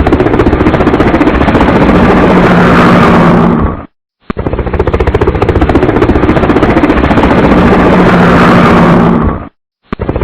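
Helicopter running close by, a loud rapid rotor chop with a rushing wash. It cuts off suddenly about four seconds in and again near the end, each time with a brief silence.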